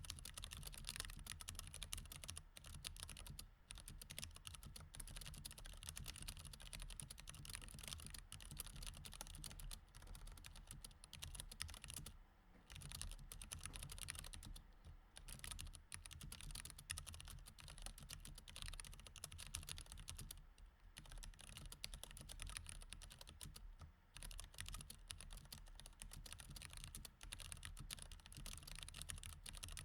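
Mechanical keyboard with Cherry MX Red switches being typed on continuously: a fast, uneven run of keystrokes, with a few brief lulls.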